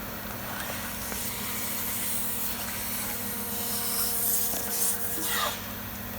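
SA20TAZ vacuum packaging machine running: a steady hum under a hiss of air that builds, slides down in pitch and cuts off about five and a half seconds in.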